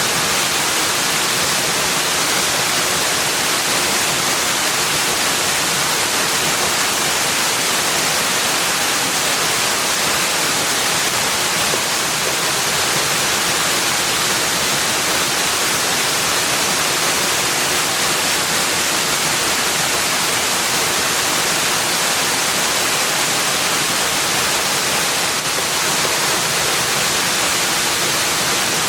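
Steady, unbroken rushing noise with no separate events, heaviest in the upper range: a continuous nature-sound ambience.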